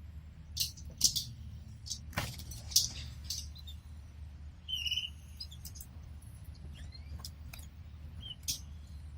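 Pet canaries in their cage: sharp taps and clicks at irregular moments, with a short high chirp about halfway through and a few faint rising chirps after it, over a steady low hum.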